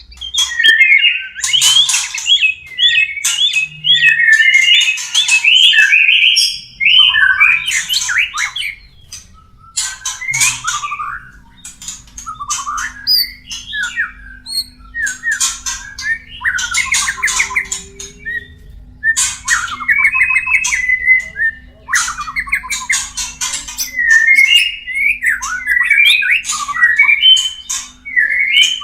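White-rumped shamas calling in courtship: quick varied whistled phrases mixed with harsh rasping notes, in repeated loud bouts with short pauses between them.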